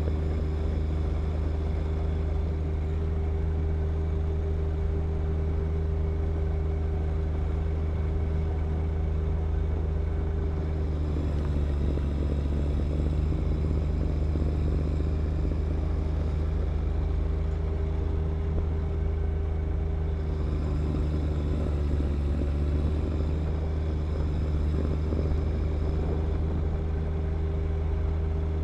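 John Deere 1025R compact tractor's three-cylinder diesel engine running steadily at working speed while clearing snow with the snow blower, its pitch dipping slightly twice, about a third of the way in and again about three quarters in.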